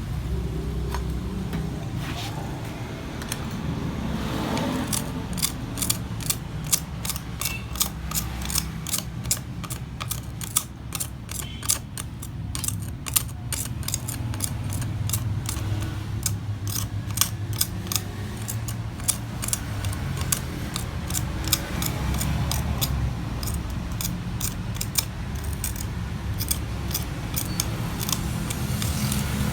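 Repeated sharp mechanical clicks, a few per second for most of the stretch, over a steady low hum.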